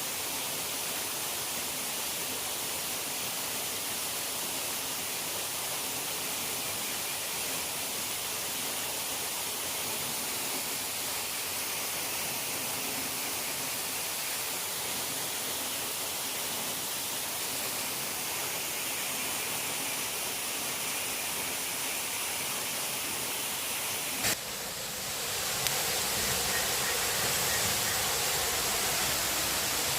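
Steady rushing noise of water. About 24 seconds in, a click and an abrupt change to a fuller, slightly louder rush with more low rumble.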